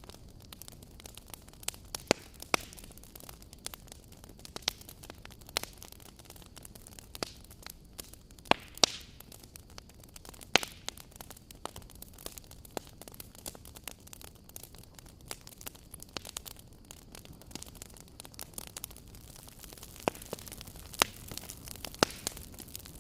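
Wood fire crackling: irregular sharp pops and snaps, a few of them louder, over a steady low hiss.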